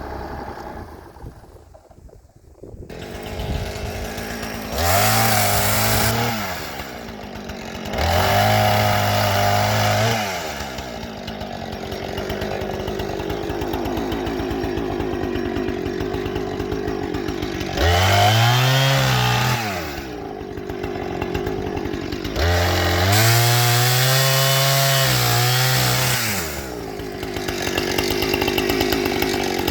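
An engine revving up four times, each rev held for one to three seconds before dropping back, with the engine running steadily in between.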